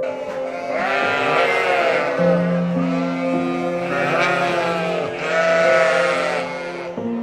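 A farm animal bleating: about three long, wavering bleats one after another, over background music with held notes.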